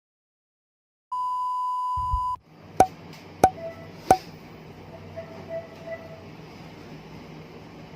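A steady electronic beep lasting just over a second, then three sharp clicks with a short ring, followed by faint background hum.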